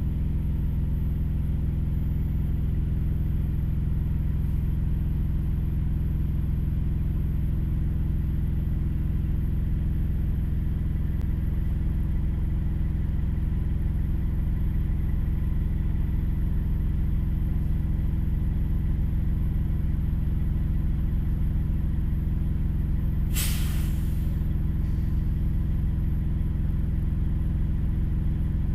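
Diesel truck engine idling steadily, a low even hum heard from inside the cab. Near the end comes one short hiss of released air, like an air brake.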